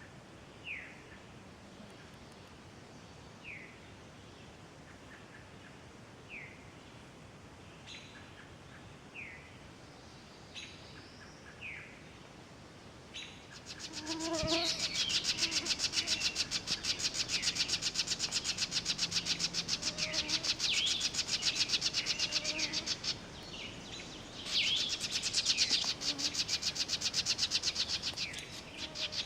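Woodland birdsong: a bird repeats a short, falling note every few seconds. About halfway through a much louder, fast, even rattling noise sets in and masks it, with birds still singing over it; the rattle breaks off briefly near the end and then resumes.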